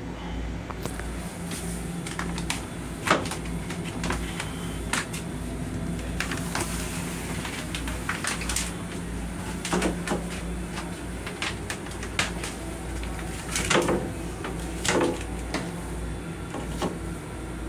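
Steady low rumble inside an LIRR M7 railcar's restroom, with scattered sharp clicks, knocks and rattles as torn paper is handled over the toilet.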